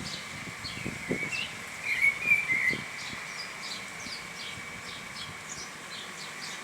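Small birds chirping with many short, quick notes, and one louder warbling call about a second to three seconds in. A steady high hum runs underneath.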